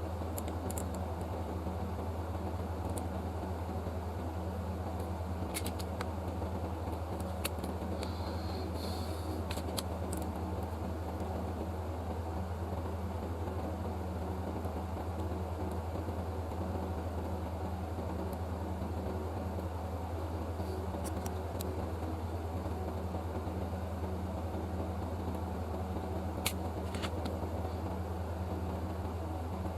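Steady low mechanical hum with a few faint, scattered clicks.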